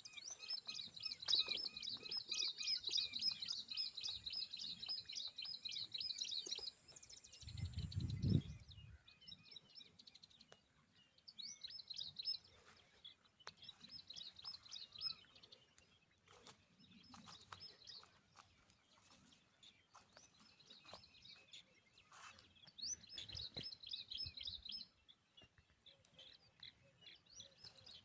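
Tailorbirds chirping in rapid runs of high chirps, several a second: a long run at first, then shorter bursts. There is a brief low rumble about eight seconds in.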